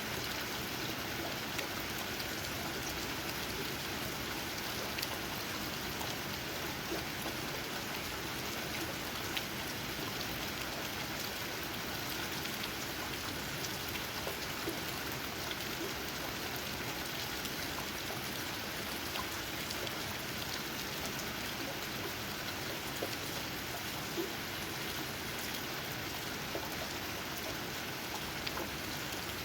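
Steady rain falling, with individual raindrops tapping on leaves as scattered light ticks.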